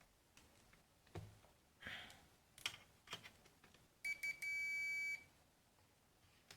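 Digital multimeter beeping: two short high beeps and then a steady beep of about a second, about four seconds in, with light clicks and taps of the test probes on the circuit board before it.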